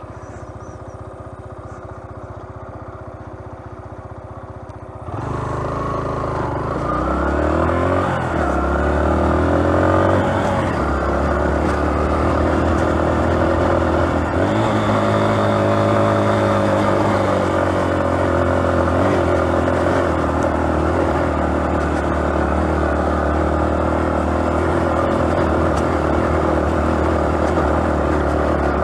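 Yamaha XTZ125's single-cylinder four-stroke engine ticking over at low revs. About five seconds in it pulls away, revving up through several gear changes. It then runs steadily at cruising speed.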